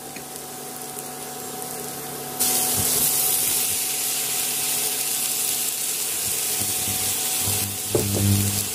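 Onions frying in oil in a non-stick pan with a soft sizzle; about two and a half seconds in, chopped tomatoes are tipped in and the sizzle jumps suddenly to a loud, steady hiss. Near the end there is a brief knock as the wooden spatula goes into the pan.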